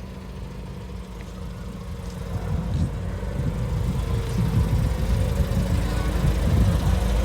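A car engine running, with a low rumble that grows steadily louder over the last few seconds.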